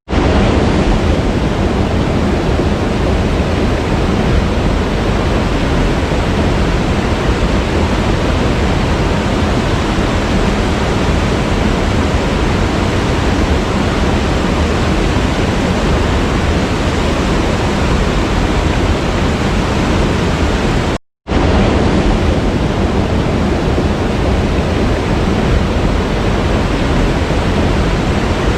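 Waterfall pouring steadily, a dense even rushing of water. It cuts out completely for a split second about two-thirds of the way through, then resumes unchanged.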